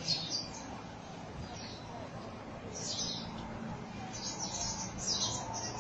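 A flock of small birds chirping in a tree: short high chirps every second or so, coming thicker near the end, over a steady low background rumble.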